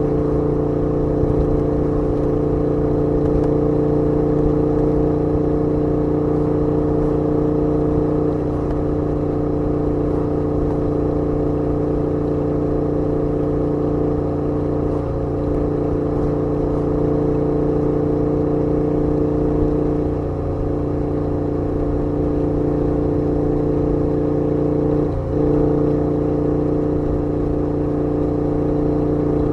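KTM 1290 Super Duke R's V-twin engine running at a steady pitch while riding at an even speed. The sound briefly dips three times, about a quarter, two-thirds and most of the way through.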